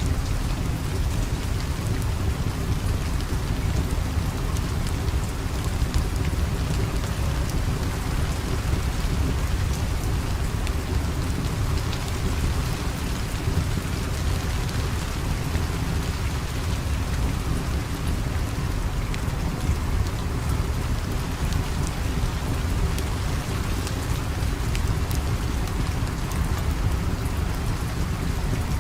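Steady rain, a dense even hiss over a deep, constant low rumble, with scattered small sharp ticks.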